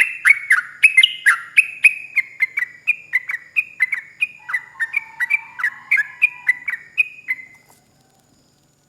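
Yellow-vented bulbul (trucukan) giving a long, rapid run of song: loud whistled notes, each sweeping downward, about three a second. The run fades gradually and ends near the end.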